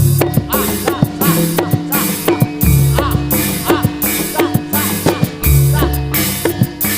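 Kuda lumping (jaranan) accompaniment music, drum-led: quick, continuous drum strokes, many with a short falling pitch, over a steady held note, with deep bass hits coming in twice.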